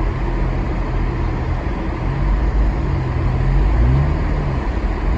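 Car engine and tyre noise heard inside the cabin while driving on a snow-covered road: a steady low drone with a brief shift in engine pitch about three and a half seconds in.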